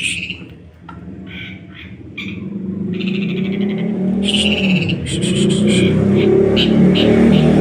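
A long-tailed shrike (cendet) gives short, harsh chirping calls during the first few seconds. Under them a low engine drone grows steadily louder and takes over toward the end.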